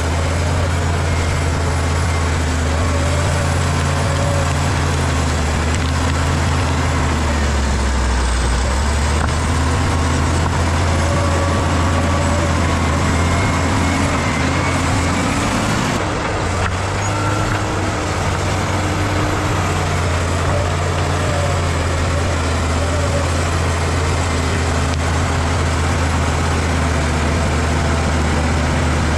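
Bulldozer's diesel engine running with a steady, heavy low drone. Its note changes slightly about halfway through.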